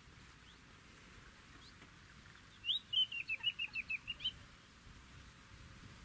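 A bird calling: one rising note, then a quick run of about ten short, high, down-slurred notes, lasting under two seconds, about three seconds in.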